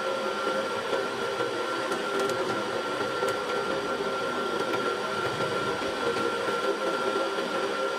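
Electric drill running steadily with a step drill bit, drilling into a battery; an even motor whine with no break.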